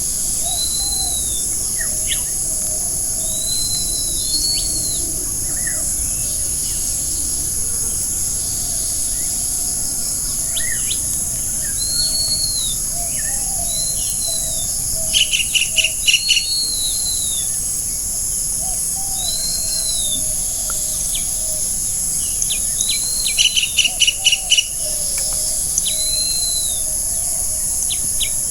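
Several forest birds calling: short arched whistles repeating every couple of seconds, low warbling notes, and two quick runs of sharp, rapid notes, one about halfway through and one near the end. A steady high hiss runs under them.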